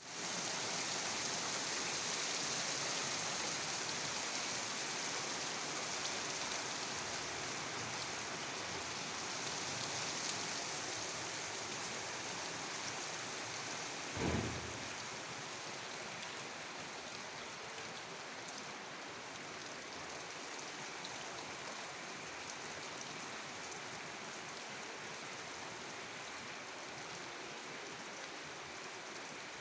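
Rain falling steadily, a continuous hiss that eases a little over time, with one brief low thump about halfway through.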